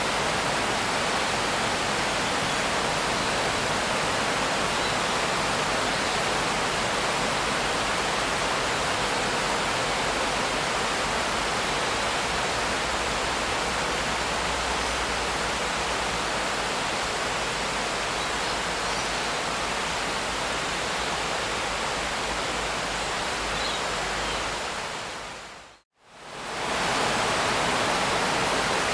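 Steady, dense rain making an even hiss. Near the end it fades to silence and comes back within about two seconds.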